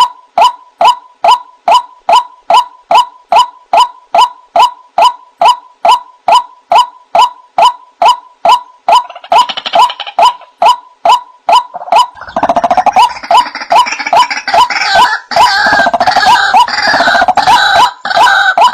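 White-breasted waterhen (ruak-ruak) calls played as a bird-trapping lure: a short "kwak" note repeated evenly, about two to three times a second. About two-thirds of the way in, a loud, dense chorus of harsher overlapping calls joins it, then stops near the end and leaves the plain repeated note.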